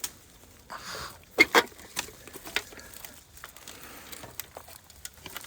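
Handling a metal panel on an old car wreck: scraping and rustling with a few sharp knocks, the loudest pair about a second and a half in.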